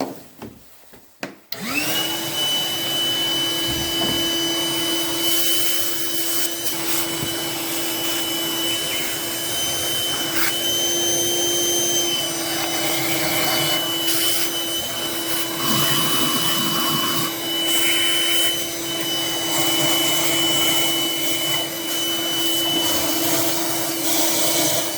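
Vacuum cleaner switched on after a few clicks, its motor spinning up over a moment and then running with a steady whine as it sucks up dirt, the pitch wavering a little as the nozzle is moved about.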